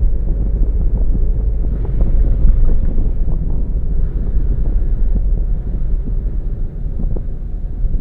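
Car driving along a road: a steady low rumble of road and engine noise, with wind buffeting the microphone.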